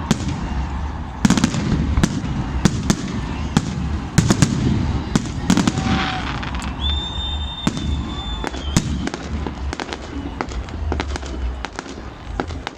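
Fireworks display going off: many sharp bangs and cracks in quick, irregular succession. A steady high whistle sounds for about two seconds, around seven seconds in.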